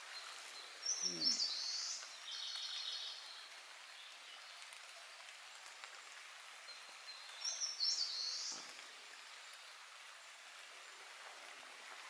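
A songbird singing twice, several seconds apart: a quick high phrase, the first time followed by a fast trill, over a faint steady hiss of the woodland.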